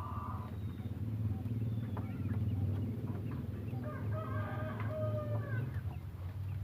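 A fowl gives one long held call lasting over a second, starting about four seconds in, with short scattered chirps around it over a steady low hum.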